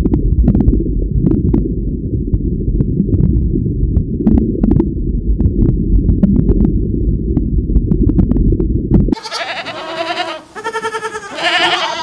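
Dull, low rushing water noise of an aquarium, with scattered faint clicks, cutting off suddenly about nine seconds in. Then goats bleating several times.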